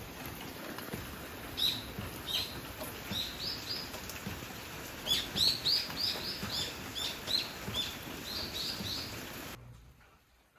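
Steady rain with a small bird chirping over it: short high chirps, singly and in quick runs of two or three, from about one and a half seconds in until near the end. Near the end the sound drops away abruptly.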